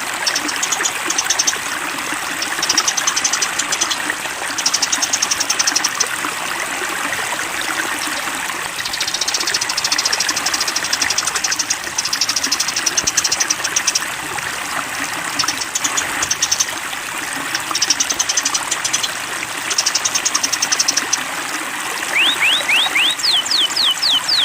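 Small songbirds singing rapid, high, buzzy trills in repeated bursts over the steady rush of flowing water. Near the end comes a quick series of rising whistles.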